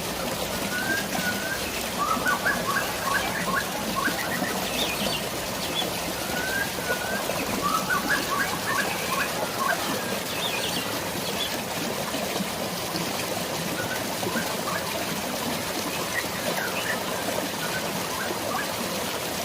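Birds chirping in quick runs of short notes, busiest about two and eight seconds in, over a steady rush of flowing water.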